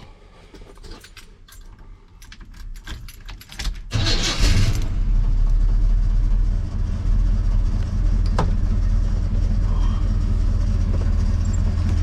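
Keys jangling with small clicks. About four seconds in, an engine starts with a short burst and settles into a steady idle, which is plausibly the Chevrolet C10 pickup.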